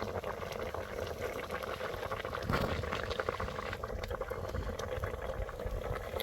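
A pot of liquid boiling, a steady bubbling and crackling, briefly louder about two and a half seconds in.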